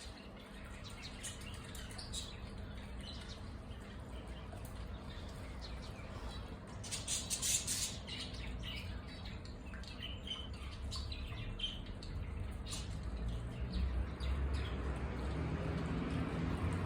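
Small birds in a mixed aviary of bulbuls, zebra finches and lovebirds chirping and calling in scattered short notes, busiest about halfway through. A low rumble builds near the end.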